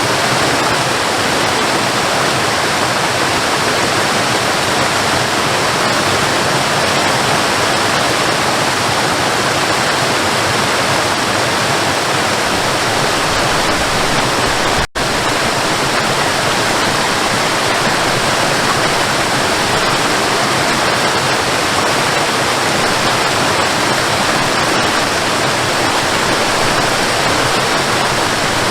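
Waterfall: a steady, loud rush of falling water. It cuts out for an instant about halfway through and then resumes.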